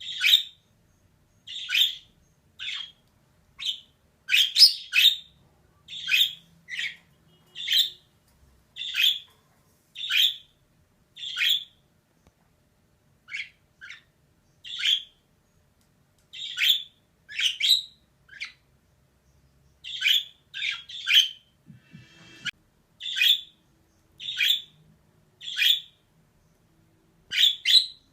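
Female budgerigar giving short, sharp chirping calls, about one a second with an occasional quick pair.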